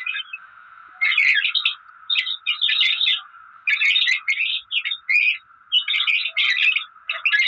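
Parrot chattering in about six bursts of quick chirps and squawks, each half a second to a second long, with short pauses between. A steady faint hum runs underneath.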